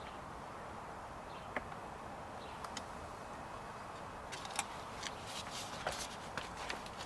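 Faint scattered clicks and light taps of plastic door-trim parts being handled and pried, growing more frequent about four seconds in, over a steady low hiss.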